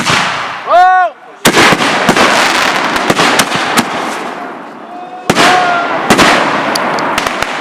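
Consumer fireworks going off: a few sharp bangs, then two big bursts, about one and a half and five seconds in. Each burst is followed by several seconds of dense crackling that slowly dies away. A short tone that rises and falls in pitch is heard just before the first burst.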